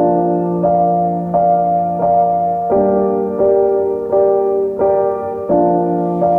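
Background piano music: notes struck at an even pace, about one every 0.7 seconds, over held bass notes that change twice.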